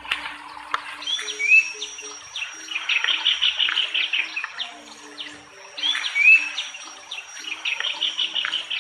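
Bird song. A phrase of short rising whistled notes runs into a fast chattering trill, and the phrase comes twice, with a steady high tone beneath it.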